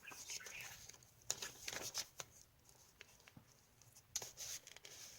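Paper and card rustling with scattered light clicks as the pages and a paper tag of a handmade junk journal are handled.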